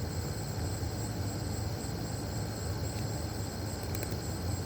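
Steady chorus of night insects, a thin high trilling throughout, over a steady low hum.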